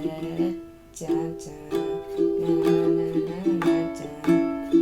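Ukulele strummed in a steady rhythm, a quick down-and-up chord pattern with a short break about a second in.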